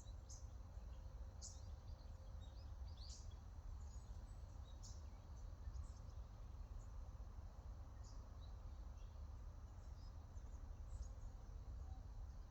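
Wild birds chirping faintly: scattered short, high chirps and quick downward calls, a few each second, over a steady low rumble.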